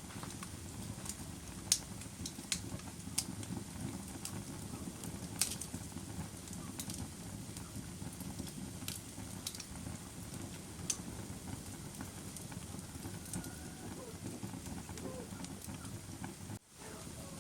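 Wood fire crackling, with sharp irregular pops over a low steady rumble of burning. The sound briefly cuts out near the end.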